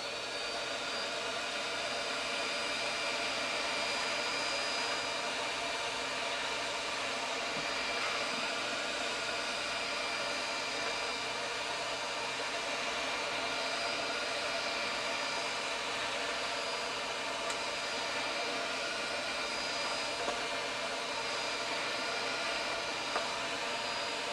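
Electric heat gun set to 150 °C blowing steadily, a rush of air with a fan whine that rises as it spins up at the start, softening glue.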